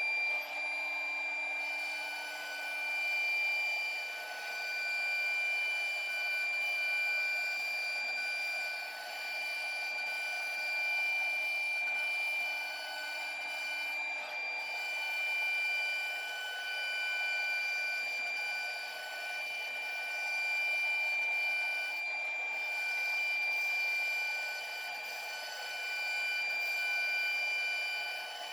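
CNC router running: a steady high spindle whine over a hiss, with higher motor tones cutting in and out as the axes move. The loudness swells and falls every couple of seconds.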